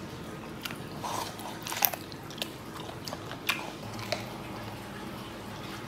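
A person chewing a mouthful of pickled boneless chicken feet, with irregular wet, crunchy clicks of biting and chewing. The two loudest come about two seconds and three and a half seconds in.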